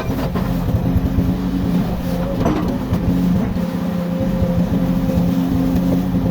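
Komatsu excavator's diesel engine running at a steady speed, with a few light knocks.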